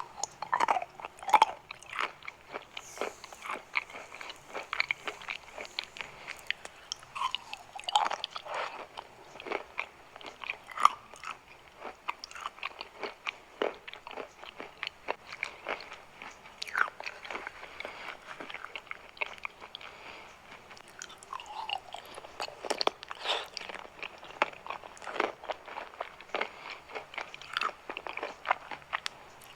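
Close-miked biting and chewing of chalk: a dense, irregular run of sharp crunches and clicks.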